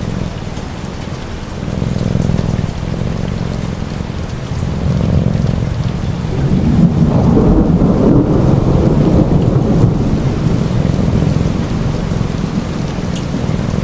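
Steady rain with a low rolling rumble of thunder that swells louder about halfway through, then eases back.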